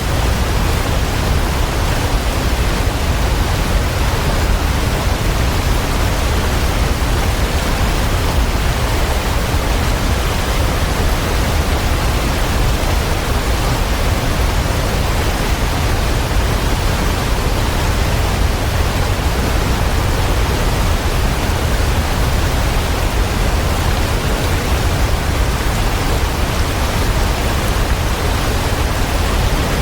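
Waterfall: water falling in a steady, unbroken rush, heavy in the deep lows.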